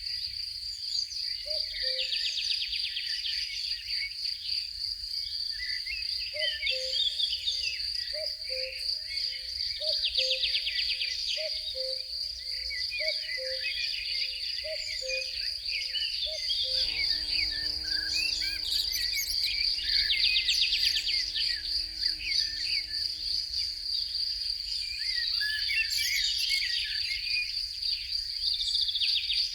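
Crickets trilling steadily, with songbirds singing in the trees. Through the first half, a low two-note bird call repeats about every second and a half. In the second half, a low drone with several pitches runs for several seconds.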